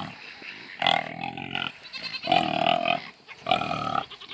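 Farm animals calling: three short calls, roughly a second apart.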